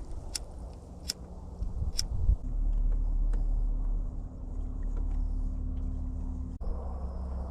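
A few sharp clicks, then, about two and a half seconds in, a boat motor comes in and runs steadily with a low hum.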